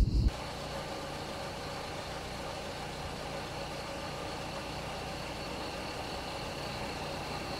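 Car engine and road noise: a steady, even drone of a car being driven. A loud low rumble cuts off suddenly just after the start.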